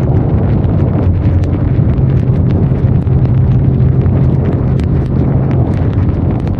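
Benelli Leoncino 500 Trail's parallel-twin engine running at a steady pitch under wind rush, with many scattered sharp ticks of rain hitting the microphone.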